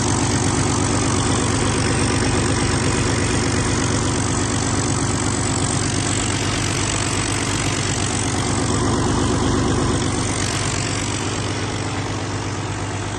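2013 Paccar MX-13 12.9-litre inline-six diesel engine running steadily on a test run. It eases off slightly in loudness over the last few seconds.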